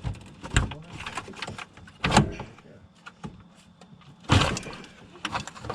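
Clunks and rattles of hands and a screwdriver working on a car radiator and A/C condenser to free their clips. The loudest knocks come about two seconds in and again about four seconds in, with lighter clicks between.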